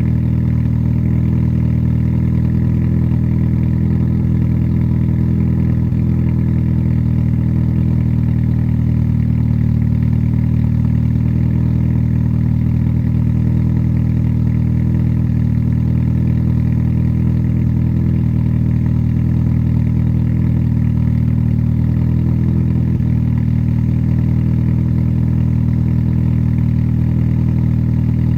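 Honda SOHC D16 1.6-litre four-cylinder engine idling steadily after a cold start, with an even, unchanging note.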